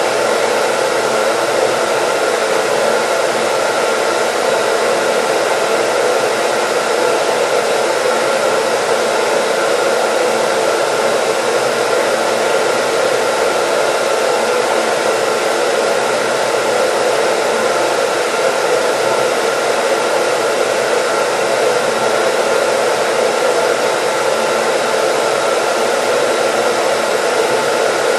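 Hair dryer running steadily: an even, unchanging rushing of air with a few faint steady tones in it.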